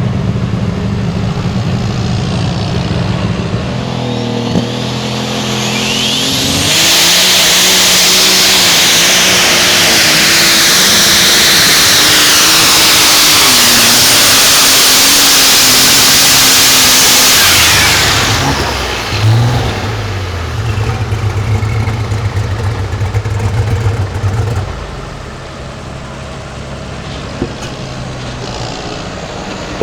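A pulling vehicle's engine making a pull: idling, revving up about four seconds in, then running flat out and very loud for about eleven seconds with a wide hiss over it, before backing off to idle.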